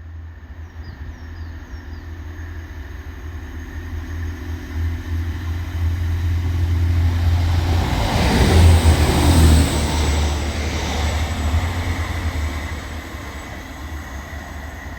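A single Class 185 diesel multiple unit passing through slowly. Its diesel engine rumble and wheel noise build up, are loudest about nine seconds in, then fade away.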